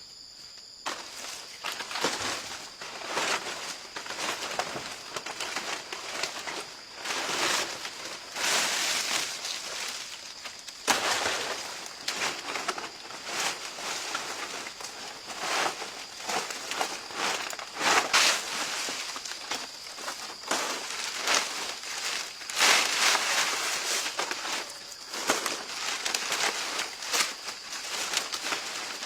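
Rustling and crackling of leaves and storm debris being handled and moved, with irregular snaps and clicks that come in surges. A steady high insect tone runs underneath.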